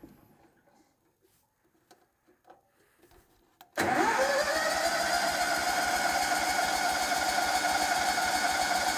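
A few faint clicks, then about four seconds in the Hurricane blower's engine catches on a choked semi-cold start. Its pitch sweeps up quickly as it comes up to speed, then it runs steadily.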